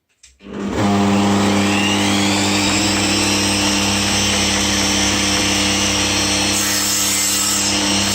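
Power tool motor starting about half a second in and then running steadily at a constant pitch.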